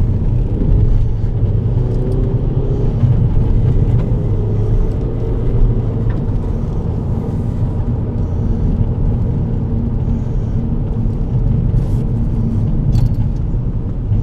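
Car driving, with engine and road noise heard from inside the cabin as a loud, steady rumble. The engine note rises in the first few seconds as the car pulls away.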